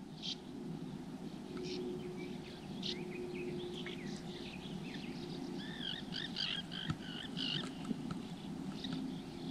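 Small birds chirping and singing in the morning quiet, with a burst of curving whistled song about six to seven and a half seconds in, over a faint steady low hum and soft outdoor background noise.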